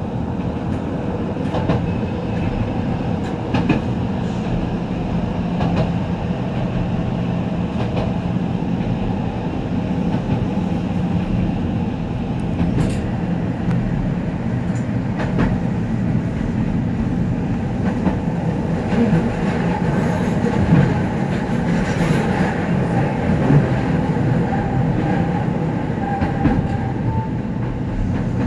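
Keihan 800 series metro-style train running, heard from inside the front car: a steady hum and the rumble of wheels on rail, with occasional sharp clicks as it runs over the track.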